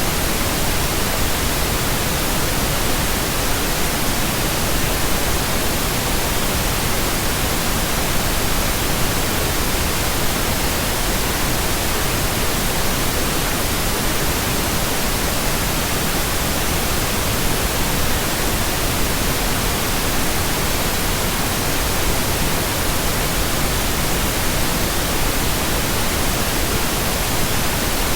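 Steady synthetic pink noise: an even, unbroken hiss that never changes.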